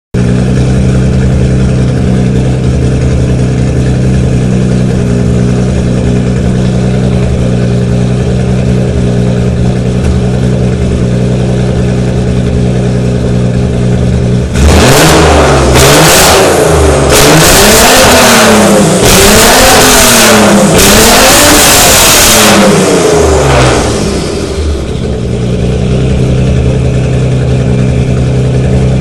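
Nissan 300ZX V6 engine heard through its exhaust, idling steadily, then about halfway through revved up and down several times in quick succession for about ten seconds before settling back to idle.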